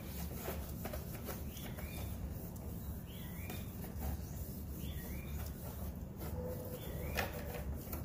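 A bird calling over and over, a short hooked chirp about every one and a half to two seconds, over a steady low hum and scattered faint clicks.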